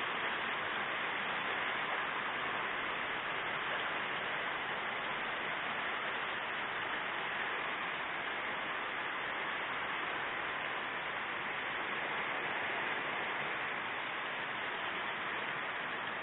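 Heavy rain pouring down during a thunderstorm, a steady, even hiss.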